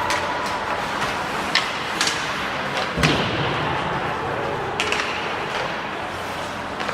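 Ice hockey play in a rink: sharp clacks of sticks and puck over a steady hum of arena noise, with a louder thud about three seconds in.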